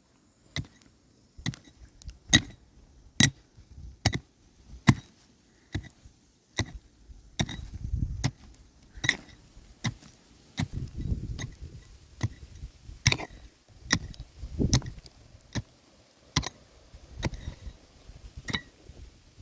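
Repeated sharp blows of a tool striking wood, roughly one a second at an uneven pace, as timber is worked by hand, with some duller knocking and shuffling between the strikes.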